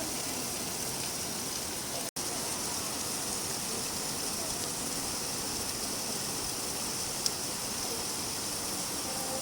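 Steady rain falling, an even hiss of many drops with no single drop standing out. The sound cuts out completely for an instant about two seconds in.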